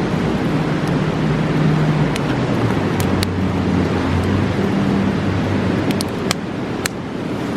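Steady rush of a fast mountain river, with a campfire's sharp crackles and pops, a pair about three seconds in and several more near the end. A low drone that shifts in pitch runs underneath.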